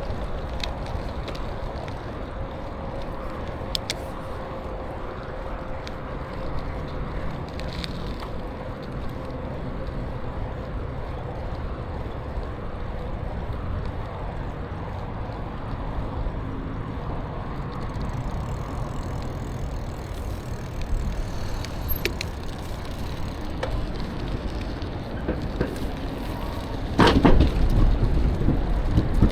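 Riding noise from a bicycle on a paved trail: a steady rumble of wind on the microphone and tyres on pavement, with a few light clicks. The wind noise grows louder near the end.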